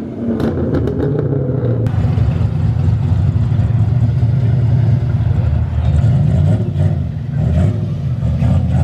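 A car engine running close by, low-pitched and steady throughout.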